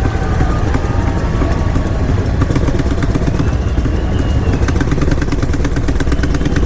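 Motorcycle engines running at low speed: a loud, steady deep rumble with a rapid firing pulse, and a faint rising whine about three seconds in.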